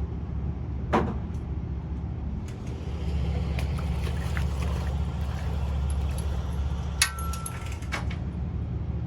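An engine running at a low, steady idle, with a few scattered clicks and knocks over it.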